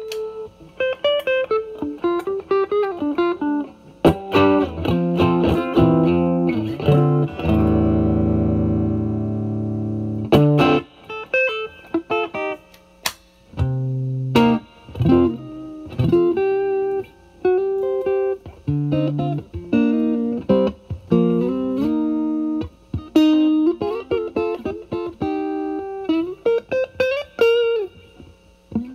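Electric guitar (a Stratocaster) played through a Vertex Steel String Clean Drive MK1 overdrive pedal with its gain at maximum, into the clean channel of a Marshall Valvestate amp. It plays improvised single-note lead phrases, with one chord held and ringing for about three seconds near the end of the first third.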